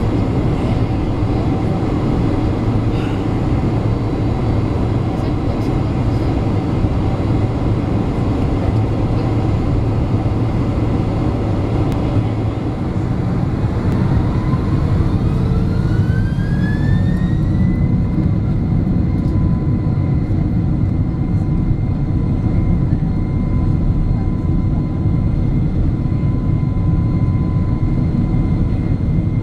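Cabin noise of a Boeing 767-300's jet engines: a steady rumble, then about halfway through a whine rises in pitch for some five seconds and holds steady as the engines spool up toward takeoff thrust.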